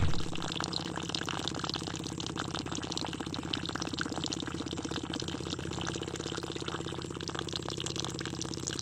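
Small DC motor of a miniature water pump running with a steady hum, with water splashing and trickling as it is pumped out.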